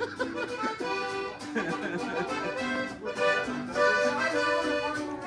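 Accordion-led music with a steady beat, in the style of regional Mexican music.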